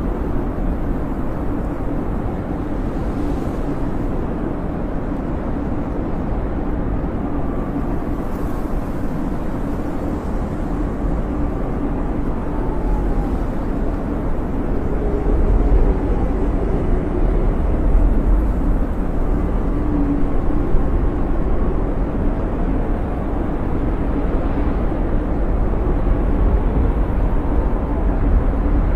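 Snowstorm wind blowing, a steady low rush with faint whistles that rise and fall, swelling a little past the midpoint.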